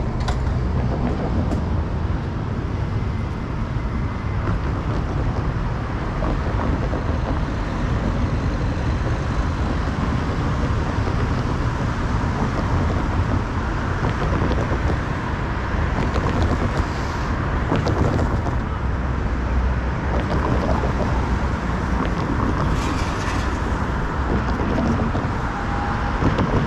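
Steady rumbling run of a city public transport vehicle in motion, heard from inside, with dense low-pitched rolling noise throughout.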